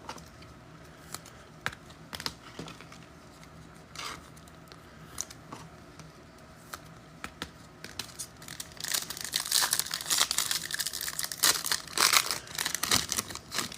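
Scattered light clicks of trading cards being handled. About eight seconds in, a foil trading-card pack wrapper is torn open and crinkled for about five seconds.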